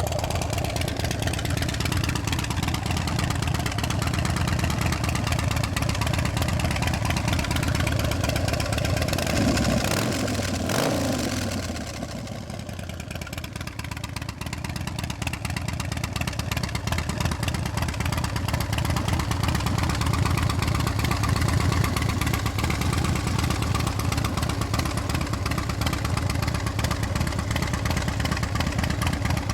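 Harley-Davidson Twin Cam 110 V-twin of a 2008 Dyna Screamin' Eagle, running at idle through Vance & Hines exhaust pipes. Its note falls back once, about ten seconds in, then settles into a steady idle again.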